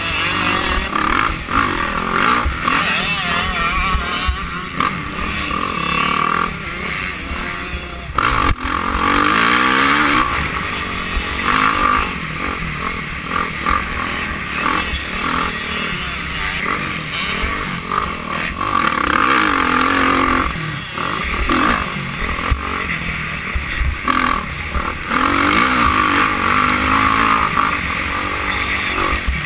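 Motocross bikes racing, their engines revving up and falling back in pitch again and again as they ride the track.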